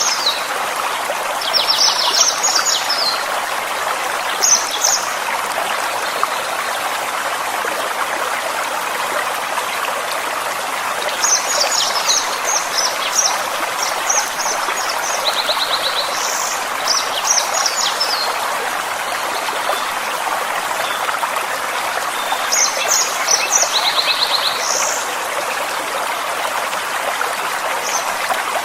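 Small forest stream running and trickling steadily, with songbirds singing bouts of short, high chirping phrases a few times over the water.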